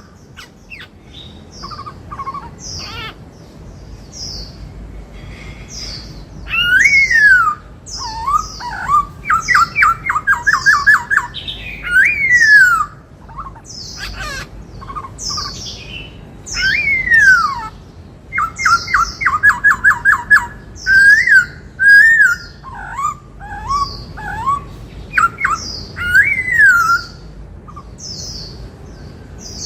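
Black-throated laughingthrush singing loud whistled phrases that rise and then fall, with rapid runs of short repeated notes and many thin high notes between them. The song is the 'bắt cô trói cột' phrase, the Indian cuckoo's call, that this laughingthrush imitates.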